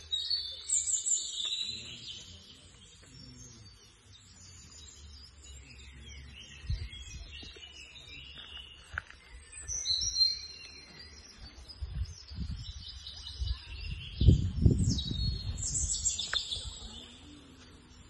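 Songbirds singing repeated high chirps and short trills, over bursts of low rumble that come in the second half and are loudest near the end.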